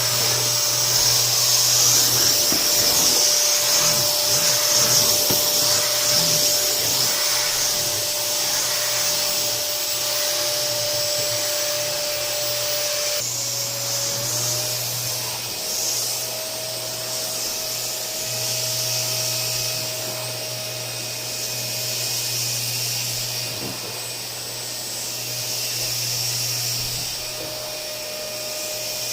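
Canister vacuum cleaner running steadily, its motor humming under a loud rush of suction air. About halfway through, the motor's pitch dips briefly and settles slightly higher, as the suction load changes.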